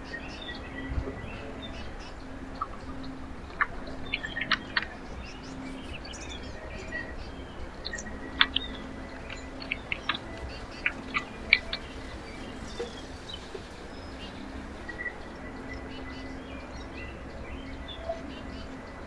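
Small songbirds at a backyard feeder giving short, sharp chip calls in scattered clusters, over a steady low background hum.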